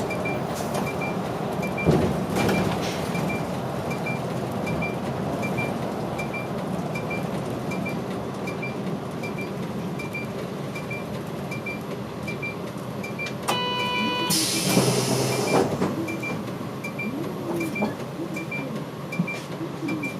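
Route bus idling with its indicator relay ticking steadily, about every three-quarters of a second. About two-thirds of the way through, a short buzzer tone sounds, followed by a loud burst of compressed-air hiss from the pneumatic door or brake system.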